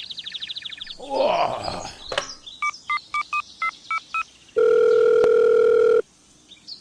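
Telephone sound effects: a quick run of chirping ticks and a whoosh, then about eight keypad dialing beeps, followed by a steady phone line tone of about a second and a half that cuts off and starts again at the very end.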